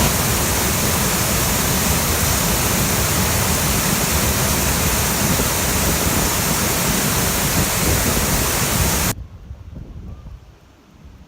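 Waterfall running high, a loud, steady noise of falling water close to the microphone, which cuts off suddenly about nine seconds in to a much quieter background.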